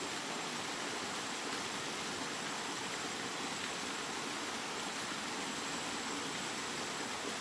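Steady, continuous rain: an even hiss with no single drops or changes standing out.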